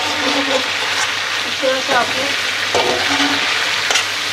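Chicken pieces and whole tomatoes sizzling in oil in an aluminium karahi over medium heat as they are fried down (bhuna). A metal slotted spatula stirs them, scraping and knocking against the pan now and then.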